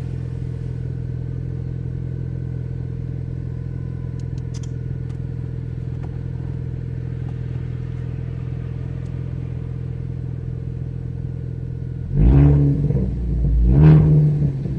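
Ford Focus ST's 2.0-litre turbocharged four-cylinder, straight-piped with the muffler and resonator removed, idling steadily on a cold start, heard from the cabin. Near the end the throttle is blipped twice, the raspy exhaust note swelling with each rev.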